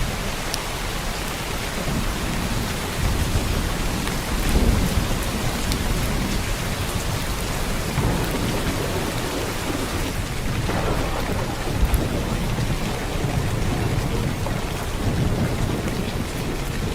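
Heavy downpour of rain: a dense, steady hiss of rain on surfaces, with a low rumble underneath that swells and fades, loudest about four and a half seconds in.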